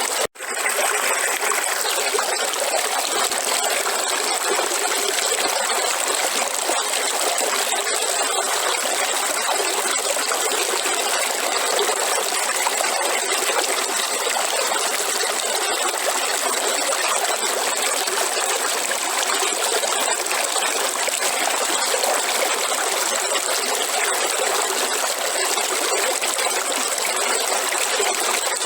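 River water running in a steady rushing, trickling flow, with a split-second cut in the sound just after the start.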